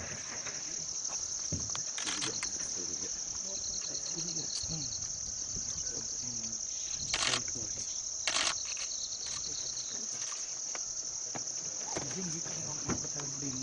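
Steady, high-pitched chorus of insects such as crickets, with a second pulsing insect call joining in for stretches. Two brief, loud noises break in about seven and eight seconds in.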